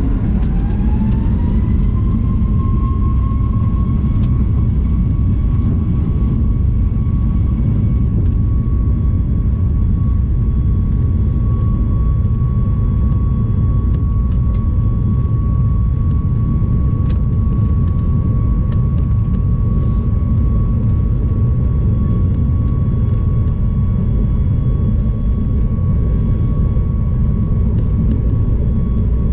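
Boeing 737 MAX 9's CFM LEAP-1B jet engines heard from inside the cabin: a loud, steady rumble with an engine whine that rises over the first couple of seconds and then holds at a steady pitch.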